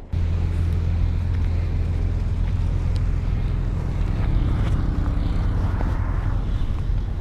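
Diesel engine of heavy earthmoving equipment running steadily with a deep, even hum.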